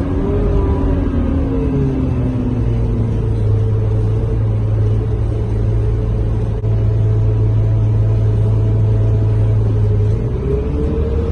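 Scania K230UB bus heard from inside the cabin while moving: the engine and drivetrain hum steadily through the middle. A whine falls in pitch over the first two seconds as the bus slows, and rises again near the end as it picks up speed.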